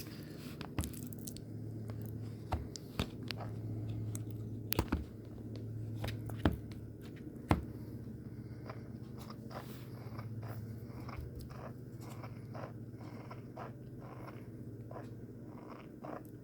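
Spoon scooping sour cream out of its tub and dolloping it onto a plate of tortilla-chip nachos: scattered clicks, taps and light scrapes, loudest in the first eight seconds, over a steady low hum.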